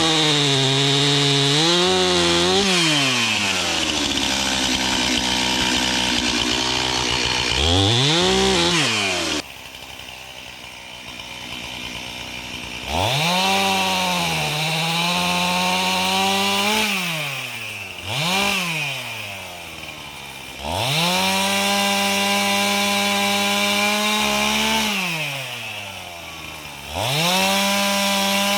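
Gas chainsaw running at full throttle and cutting wood, its engine note sagging under load and falling away at the end of each cut. It drops back to idle twice, with a short blip of throttle in the second pause, before revving up again.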